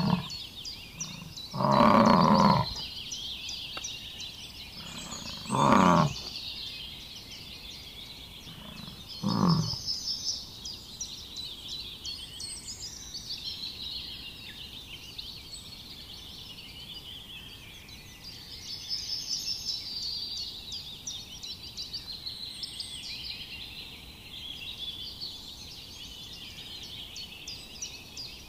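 Wild birds chirping and twittering throughout, with three loud, deep animal calls in the first ten seconds, the first the longest at about a second and the last the shortest.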